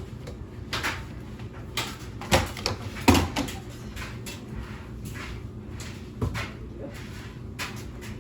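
A handful of separate knocks and clunks, like household things being moved or set down, the loudest about three seconds in, over a low steady hum.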